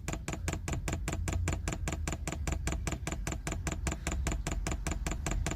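Diesel heater fuel dosing pump clicking rapidly and evenly, about nine clicks a second, as it primes the fuel line and pushes air bubbles through.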